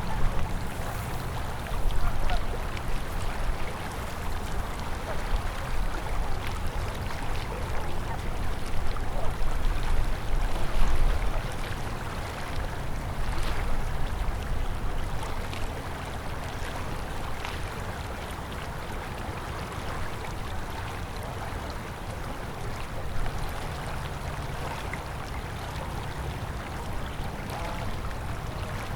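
River water flowing, a steady rushing noise with a deep rumble underneath. It is a little louder and more uneven for the first dozen seconds, then settles.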